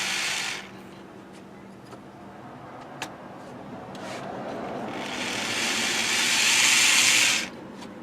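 Repaired Bachmann HO locomotive with a pancake motor running on the track: a hissing whir of motor and wheels. It drops back about half a second in, then builds over a few seconds and cuts off abruptly near the end. The owner finds that the traction tires lack grip.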